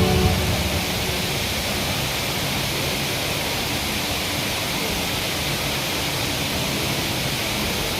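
Steady rushing of the Rain Vortex, the indoor waterfall at Jewel Changi Airport, pouring into its basin. Music fades out in the first half-second.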